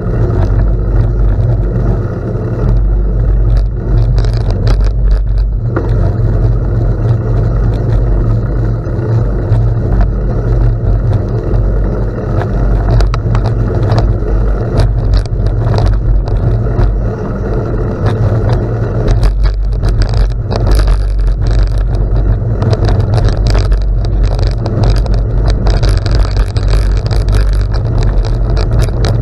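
Wind buffeting the microphone and bicycle tyres rolling over gravel during a ride: a loud, steady low rumble with many small crunches and ticks from the stones.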